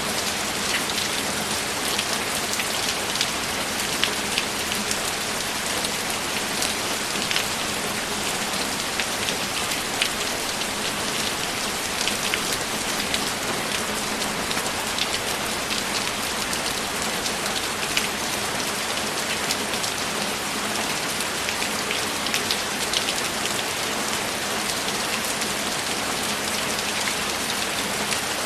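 Steady rain: an even hiss with frequent sharp individual drop hits close by, and no thunder.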